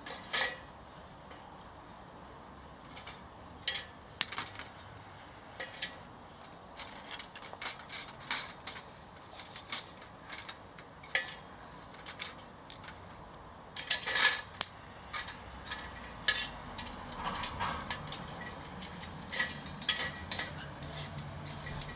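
Irregular clinks and clatters of metal being handled, with a sharp knock about 4 seconds in and a busier cluster around the middle.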